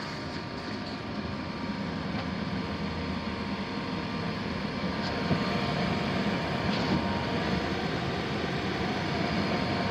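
HVAC air handler with gas furnace running: a steady rush of air with a low hum, growing a little louder over the first few seconds.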